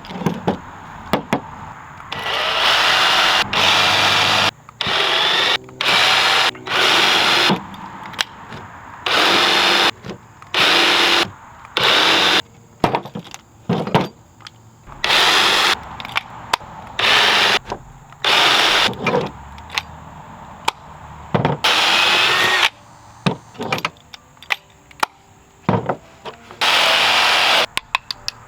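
Power drill running in repeated short bursts of about a second each, with brief pauses between, working into wood.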